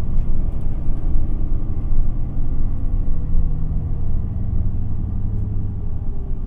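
Isuzu Erga city bus (QPG-LV234L3) under way, heard from inside the cabin: steady low diesel engine and road rumble. In the second half an engine tone slowly falls in pitch.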